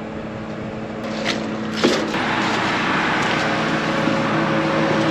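A steady engine hum, most likely the combine running nearby, with an even rushing noise that grows louder about a second or two in.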